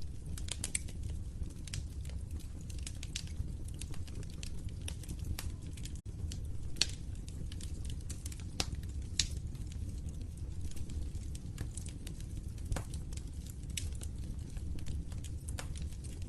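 Wood fire in a fireplace crackling, with irregular sharp pops over a steady low rumble of the flames; the sound drops out for an instant about six seconds in.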